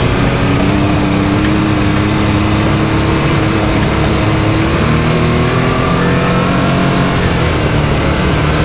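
Can-Am Maverick X3's turbocharged three-cylinder engine running steadily as the side-by-side drives along, its pitch rising and dipping gently with the throttle.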